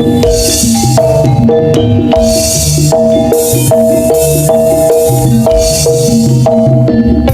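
Jaranan gamelan accompaniment: short, repeated pitched percussion notes interlock over steady drum strokes in an even, driving rhythm.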